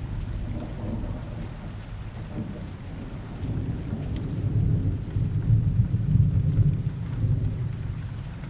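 Rain ambience with low rolling thunder that swells around the middle and eases off near the end.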